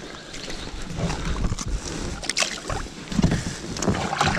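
Small knocks and rustles of handling aboard a fishing kayak, over a low rumbling noise of water and wind on the microphone.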